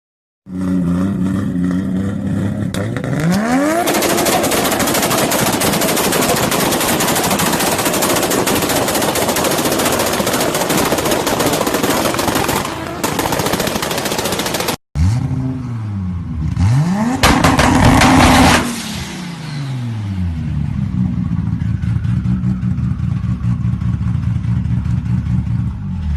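Toyota Supra's turbocharged 2JZ straight-six exhaust: idling, then revved hard into a long, loud stretch of rapid crackling. After a cut, another Supra is revved up and down twice and settles back to a steady idle.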